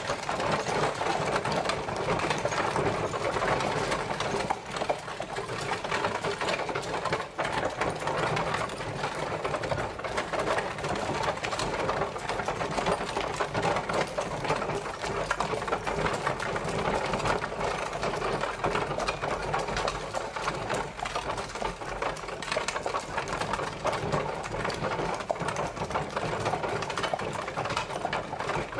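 Horse-drawn carriage on the move: a steady, rapid rattling clatter of the wheels and carriage body.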